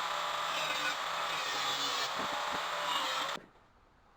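Power tool cutting through a steel exhaust pipe end, a steady harsh hiss with a wavering whine, which stops abruptly about three and a half seconds in.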